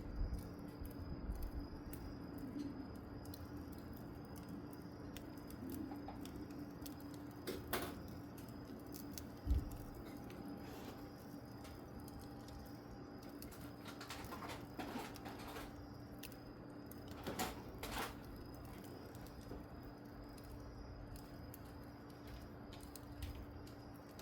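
Firewood fire burning under charcoal, with faint scattered crackles and knocks, a few in a cluster about two-thirds of the way in, over a steady low hum.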